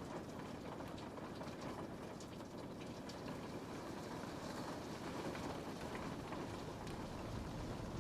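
Steady rain pattering on a window pane, with scattered individual drops ticking against the glass.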